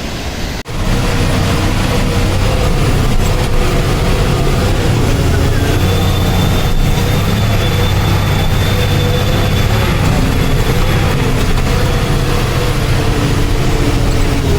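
Truck engine running steadily while driving, a loud low rumble with a faint high whine above it. The sound cuts out briefly about half a second in.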